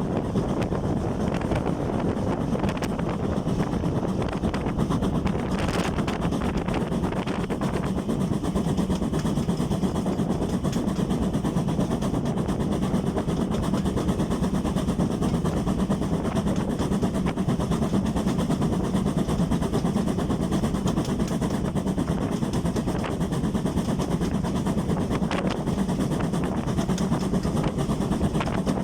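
Steam-hauled train running, a steady rumble with no breaks.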